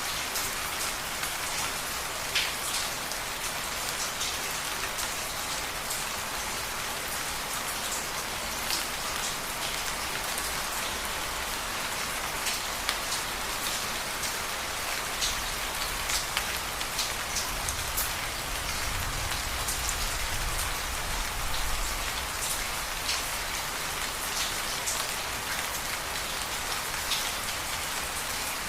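Steady rain falling, with a dense hiss and many sharp ticks of individual drops striking a surface. A low rumble comes in briefly about halfway through.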